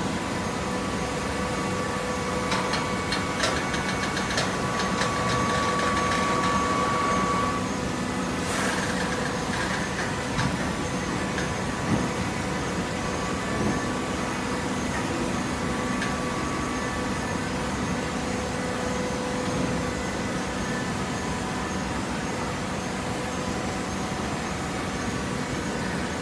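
PET bottle baling machine running with a steady mechanical hum, with a cluster of clicks and clanks a few seconds in, a brief noisy rush about eight seconds in, and a few single knocks after it.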